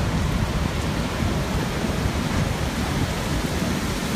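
Typhoon wind blowing hard: a steady, loud rushing noise with a fluttering low rumble from gusts buffeting the microphone.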